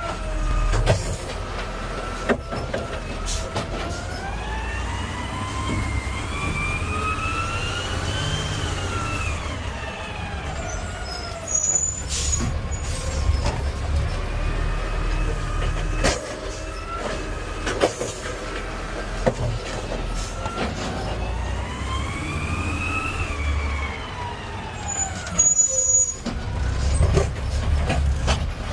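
Garbage truck running, heard from inside the cab, with a whine that rises and falls twice and a few sharp clunks.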